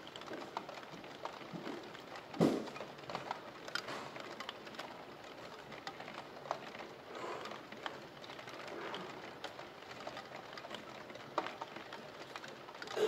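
Rain falling, with irregular drops ticking on a hard surface and a single louder thump about two and a half seconds in.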